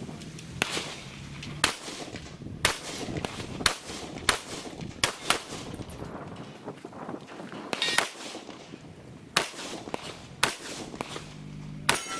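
Handgun shots fired one at a time during a practical shooting stage, about a dozen at uneven spacing of half a second to a second and a half. A brief metallic ring comes just after the shots about eight seconds in.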